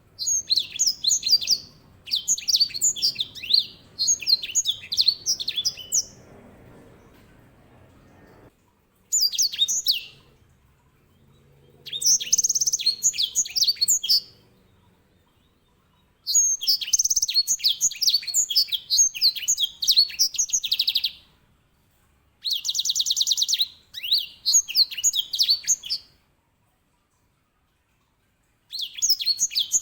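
Grey singing finch (edel sanger) singing in repeated bursts of rapid, high chirping phrases separated by short pauses. A few of the bursts hold a fast, buzzy rolling trill.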